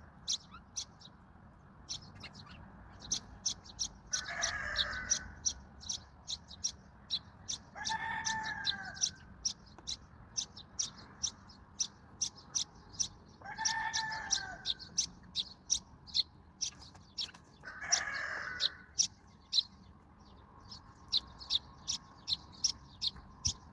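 Sparrows chirping rapidly and continuously, with a chicken calling four times, each call about a second long and about four seconds apart.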